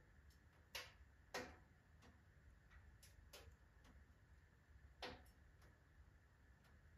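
Firewood burning in a wood stove, crackling quietly: scattered sharp pops at uneven intervals, the loudest about a second in and again about five seconds in, with fainter ticks between.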